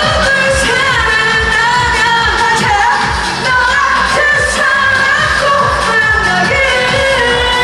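Live Korean pop song: a sung melody over a steady drum beat and bass, played loud.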